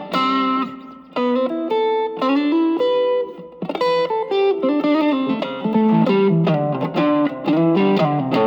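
Electric guitar played through an Ibanez TS808 Tube Screamer with a JRC 4558D chip at a boost setting, with the guitar's volume knob rolled back to clean up the drive. It plays a melodic lead line of single notes, some bent and some with vibrato.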